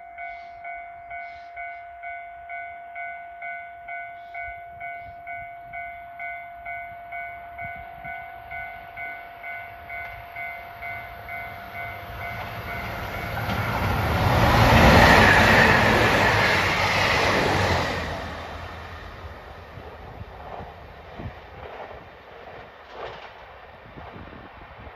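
A level-crossing warning bell dings about twice a second. Then a limited express train passes through the station at speed: a rising rush of wheels on rail, loudest about fifteen seconds in and falling away a few seconds later, with faint clacks as it draws off.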